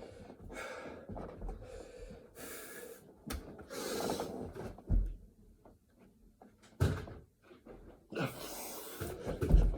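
Heavy, hissing breaths and gasps of a man exerting himself through burpees, with a few dull thumps of his body meeting the floor, the loudest near the end.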